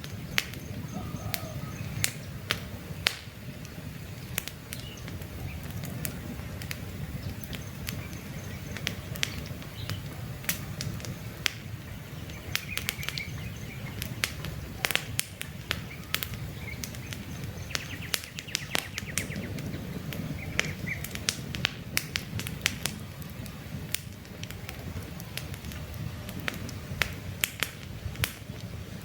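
Campfire burning with irregular sharp crackles and pops over a steady low rumble of flames, with a few faint bird chirps now and then.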